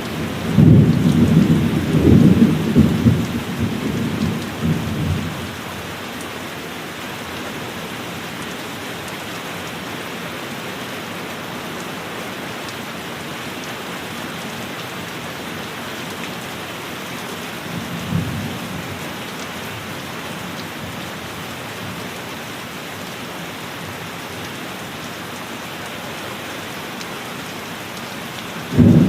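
Steady heavy rain with thunder: a loud rolling rumble of thunder that dies away over the first five seconds or so, a brief fainter rumble about two thirds of the way through, and another loud clap starting just at the end.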